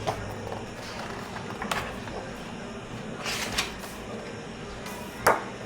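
Paper pages of a hardcover picture book being turned by hand: a few brief swishes, with a sharp tap near the end.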